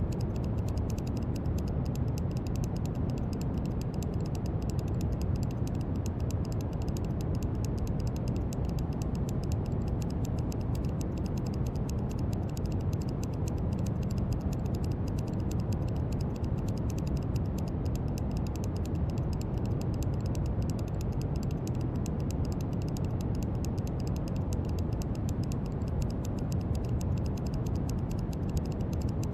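Steady brown noise: an even, unbroken hiss that is heaviest and deepest in the low end and thins out toward the top.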